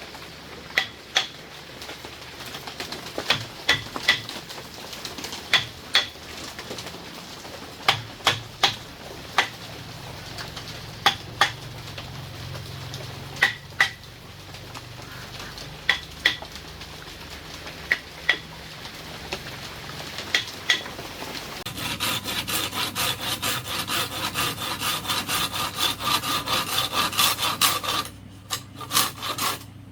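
Irregular sharp knocks, each with a short ring, then from about two-thirds of the way in a hand saw cutting bamboo in quick, even back-and-forth strokes, with a brief pause near the end.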